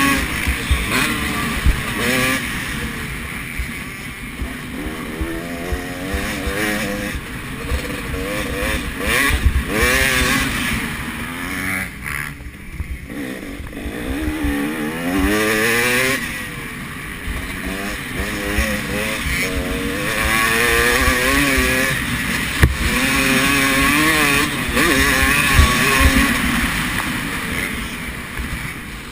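Several motocross motorcycles racing, their engines revving up and down over and over as riders accelerate, shift and back off around the track.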